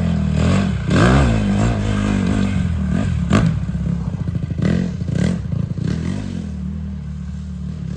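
Small four-stroke dirt bike engine idling, blipped up a few times: about a second in and again several times around five seconds. A sharp click or knock cuts through about three and a half seconds in.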